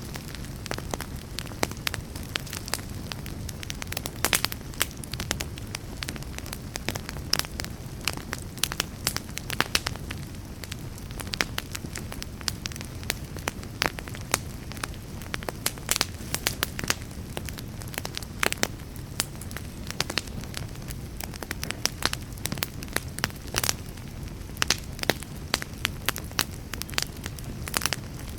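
Wood fire crackling in a fireplace: frequent sharp irregular pops and snaps over a steady low rumble of burning.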